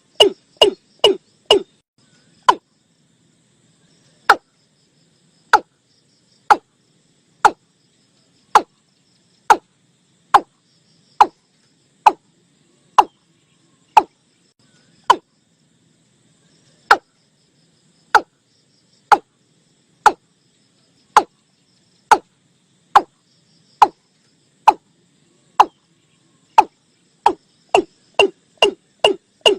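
Male watercock calling: a quick run of notes that slows to deep booming notes about once a second, then speeds up into a fast run again near the end.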